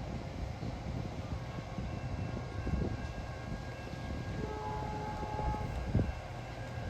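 Outdoor railway station ambience: a steady low rumble with faint thin tones, a brief distant horn-like tone a little over four seconds in, and a single sharp knock about six seconds in.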